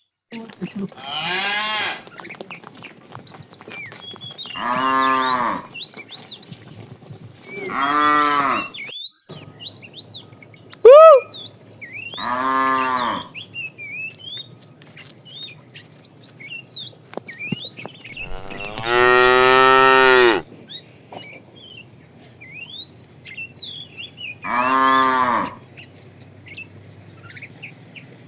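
Cattle mooing: about seven separate calls, each a second or so long, with the longest and fullest about two-thirds of the way through. A much shorter, sharper call about eleven seconds in is the loudest.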